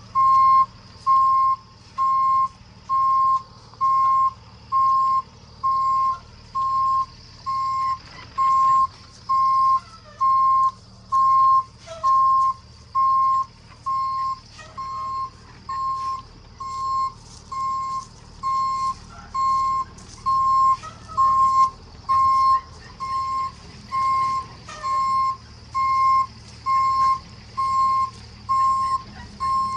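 Box truck's reverse alarm beeping steadily, about one beep a second, as the truck backs up. The engine hums low underneath.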